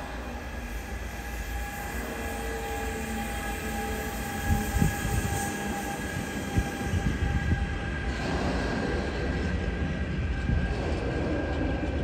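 Freight train of tank wagons rolling past: a steady low rumble with a few faint held tones, growing louder, and irregular knocks of the wheels over rail joints from about four seconds in.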